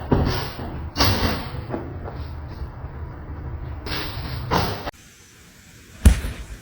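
A series of sudden thumps or bangs: one about a second in, a pair close together around four seconds in, and after an abrupt cut to a quieter recording, another hard thump near the end.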